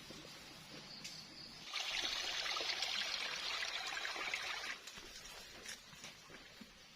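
Water pouring in a steady stream for about three seconds, starting sharply a couple of seconds in and stopping abruptly.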